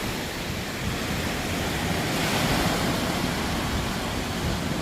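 Ocean surf washing onto a sandy beach, a steady rush that swells a little past halfway, with wind rumbling on the microphone.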